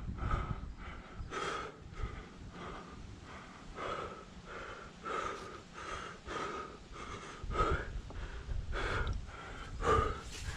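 A climber breathing hard and fast with exertion: a quick run of heavy, gasping breaths.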